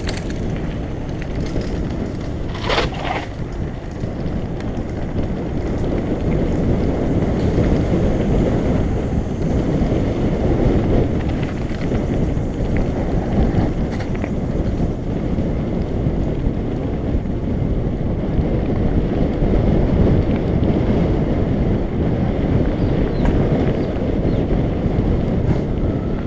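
Wind buffeting a GoPro action camera's microphone as a mountain bike rides downhill: a loud, steady rushing rumble, a little louder after the first few seconds, with a brief sharper noise about three seconds in.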